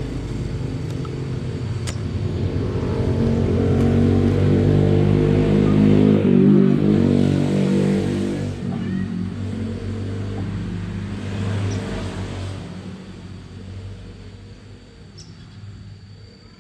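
A motor vehicle's engine passing by: it grows louder to a peak about six seconds in, then fades away.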